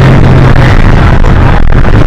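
Hino HS8JRVL city bus under way: engine and drivetrain running with a steady low drone over loud road rumble.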